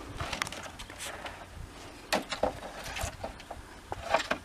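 Wooden boards knocking and clattering as they are thrown down and handled: a scattering of short sharp knocks, the loudest about two seconds in.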